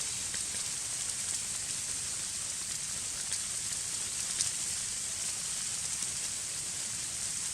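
Heavy, wet snow falling onto a tarp shelter overhead: a steady fine hiss with a few faint ticks.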